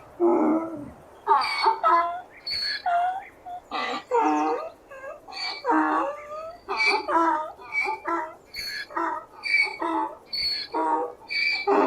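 Donkey braying: a dense run of short pitched calls, one after another.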